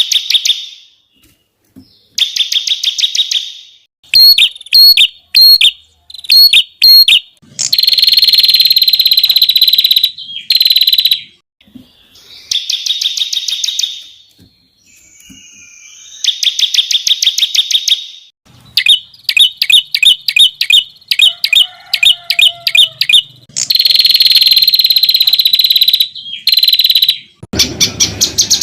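Songbird song of the masteran kind, full of 'tembakan' phrases: bursts of rapid, sharp, high trills and buzzy rattles, each lasting about one to two seconds with short breaks between.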